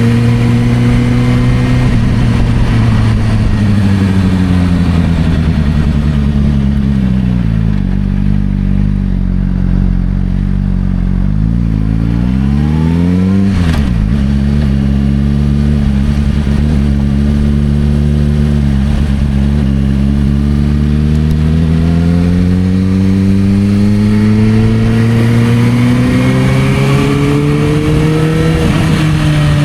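Suzuki GSR600's inline-four engine through a Dominator aftermarket exhaust, riding: the engine note falls as the bike slows, rises quickly about halfway and drops suddenly, then climbs steadily for a long pull before dropping again near the end, as at gear changes.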